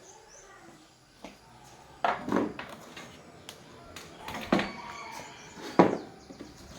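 Three sharp knocks, about two, four and a half and six seconds in, over a faint background.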